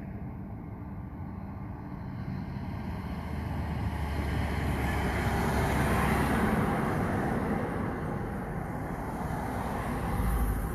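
A road vehicle passing by, its tyre and engine noise swelling to a peak about six seconds in and then fading, over a steady low hum.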